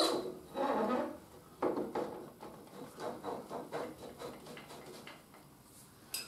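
Honda Africa Twin CRF1000L front fork tube being slid up through the steering yoke clamp, with metal-on-metal handling noises. A few louder scrapes and knocks come in the first couple of seconds, then fainter clicks.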